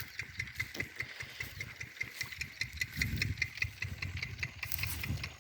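Field Marshall 10 hp single-cylinder diesel engine running steadily while driving a 4x3 irrigation water pump, with an even knocking beat of about five strokes a second over a low rumble.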